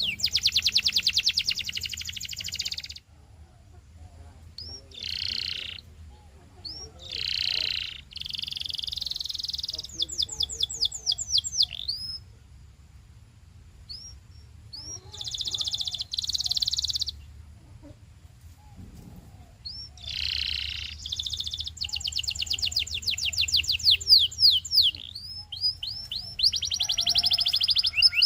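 Domestic canary singing in loud phrases of rapid trills and quick sweeping notes, with short pauses between phrases. A faint steady low hum sits underneath.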